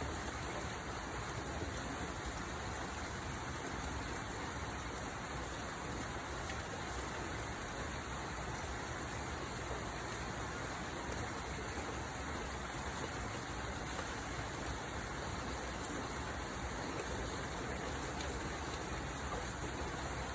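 Steady rainfall, a constant even hiss of raindrops with no breaks or separate hits standing out.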